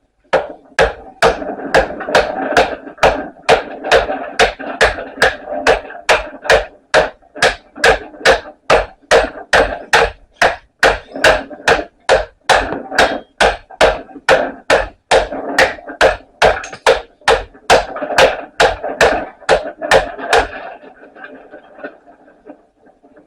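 Steady hammer blows on a chisel, about two and a half a second, cutting through a microwave oven transformer held in a vise, each strike ringing off the steel; this transformer has aluminum windings. The hammering stops about 20 seconds in.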